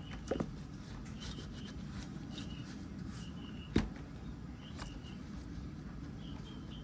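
Two-stroke motorcycle cylinder being dunked and scrubbed in hot soapy water: soft rubbing with a few short squeaks, and one sharp knock a little past halfway.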